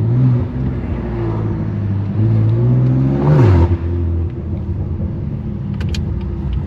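Straight-piped BMW S55 3.0-litre twin-turbo inline-six in an F80 M3 Competition, pulling through the gears at low speed. The note climbs, drops sharply about three and a half seconds in with a brief rush of noise, then settles into steady cruising, with a few sharp clicks near the end.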